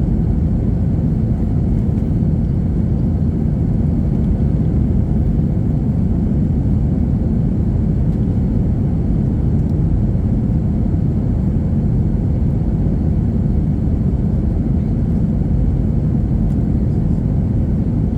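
Steady low roar of an Airbus A321-231's IAE V2500 engines and airflow, heard inside the passenger cabin at a window seat.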